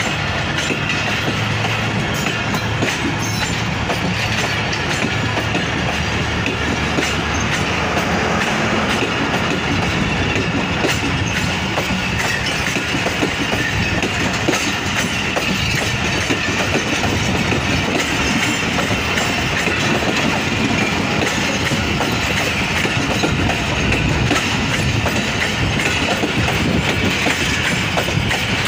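Pakistan Railways passenger coaches rolling past at close range: a steady rumble of wheels on rail, with wheels clicking over the rail joints.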